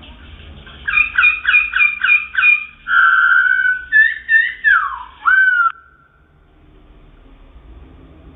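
A wambi songbird singing one loud whistled phrase: six quick repeated notes, a long held whistle, then a few notes ending in a swooping glide that stops abruptly about two-thirds of the way through.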